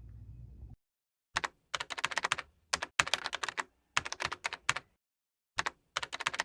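Typing on a keyboard: bursts of rapid key clicks separated by short pauses, starting a little over a second in.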